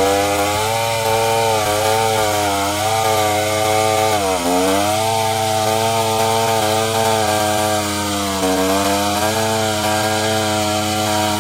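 Chainsaw running at high revs while cutting through a log, its engine pitch dipping briefly twice under load, about four and eight seconds in.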